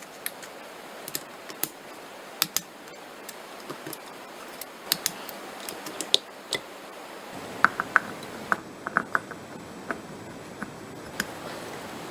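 Irregular sharp clicks and clinks of small metal parts being handled, over a steady hiss.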